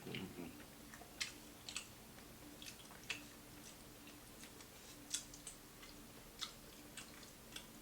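Someone chewing crispy fried food close to the microphone: scattered, irregular sharp crunches and mouth clicks, roughly one or two a second, over a faint steady hum.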